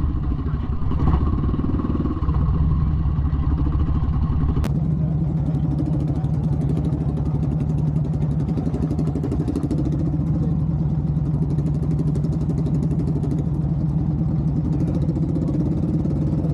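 A trike's Harley-Davidson Twin Cam V-twin engine running steadily at low speed while under way, with one sharp click about a third of the way in.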